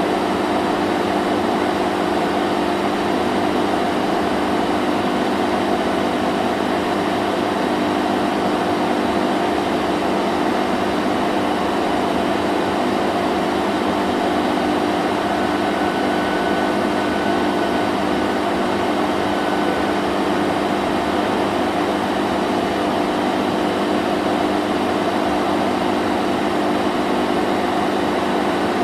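Vacuum cleaner running steadily: an even motor hum with a rushing air noise. A faint thin whistle joins in about fifteen seconds in and fades about five seconds later.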